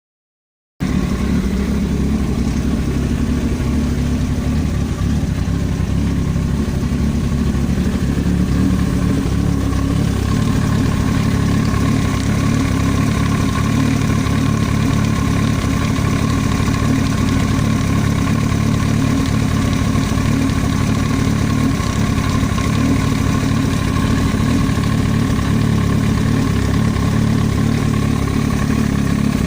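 Yamaha R1 sportbike's inline-four engine idling steadily, cutting in abruptly about a second in and holding an even pitch with no revving.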